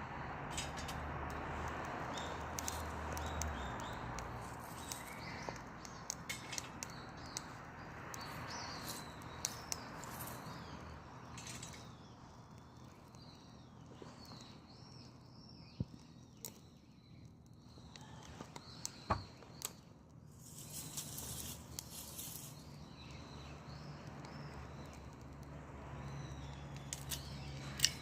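Dry perilla branches burning in a Solo Stove wood stove: a steady rush of flame that eases after about ten seconds, with scattered sharp crackles and pops from the burning twigs. Birds chirp in the background.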